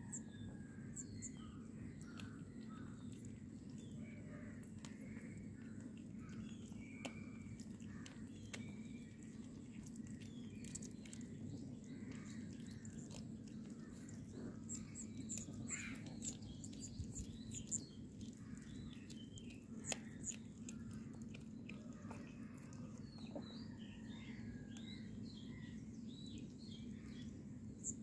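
Scattered small bird chirps over a steady low hum, with a few short sharp clicks.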